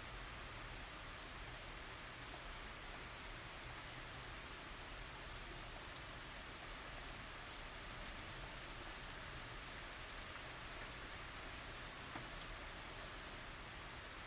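Steady light rain falling, a soft even hiss of rain on surfaces with fine patter of individual drops and no thunder.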